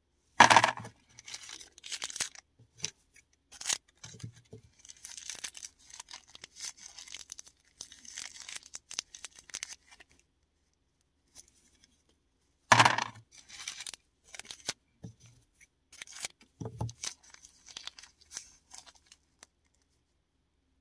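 Paradichlorobenzene mothball tablets and their packaging worked by hand: two sharp cracks, one about half a second in and one about 13 seconds in, each followed by several seconds of irregular crackling and crumbling.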